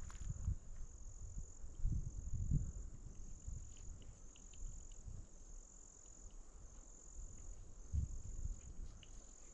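Insects trilling with a high, steady pitch in long repeated pulses of about a second each, with a low rumble and a few dull thumps around two seconds in and again near the end.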